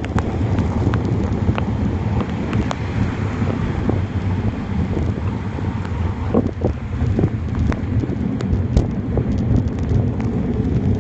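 Wind buffeting the microphone of a phone on a moving bicycle in heavy rain: a steady low rumble with scattered sharp ticks.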